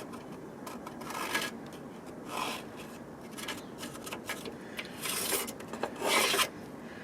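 Four short rasping scrapes of about half a second each, spread over several seconds; the last two are the loudest.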